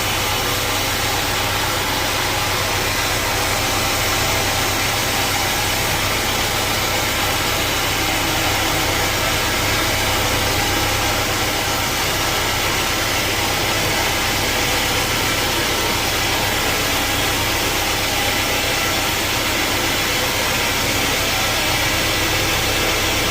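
Sawmill wheel saw machinery running with a steady, unchanging mechanical noise and a low hum.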